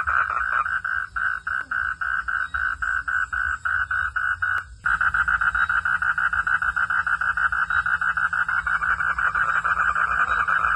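Frogs calling in a rapid, even pulsing chorus, about five pulses a second. About halfway through it breaks off for an instant with a click, then resumes with the pulses coming faster.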